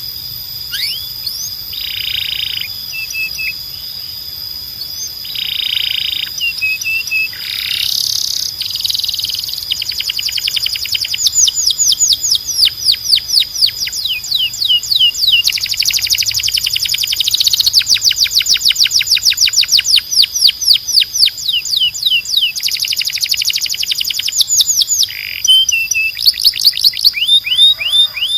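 Domestic canary (canário belga) singing: long fast trills of rapidly repeated downward-sliding notes, broken now and then by short harsh, buzzy phrases.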